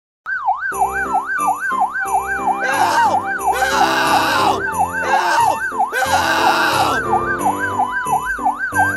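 Fire-truck siren sound effect wailing quickly up and down, about two and a half swoops a second, over a music track with a steady beat. A few loud rushing hisses come in the middle.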